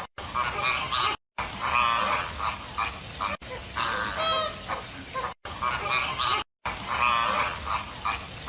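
A group of birds calling with repeated honking, goose-like calls, broken by sudden cuts between short clips.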